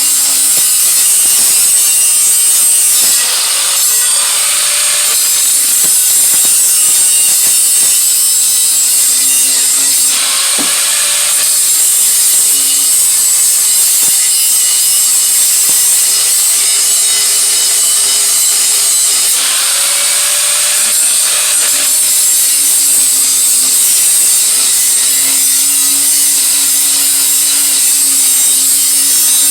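Electric grinder grinding steel on an exhaust head pipe: a loud, continuous hiss of the abrasive on metal over the motor's whine, which sags and recovers in pitch several times as the disc is pressed into the work.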